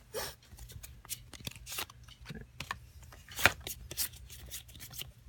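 Pokémon trading cards being handled and slid against each other: a run of light clicks and rustles, the sharpest about three and a half seconds in.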